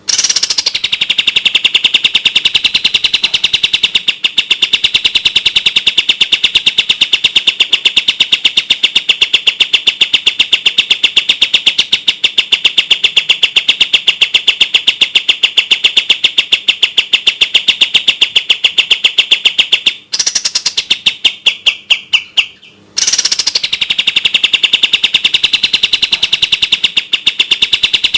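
Kapas tembak bird singing a fast, tightly packed trill of rapidly repeated high notes, steady in pitch. About twenty seconds in the trill slows into spaced notes and pauses briefly, then starts again at full speed.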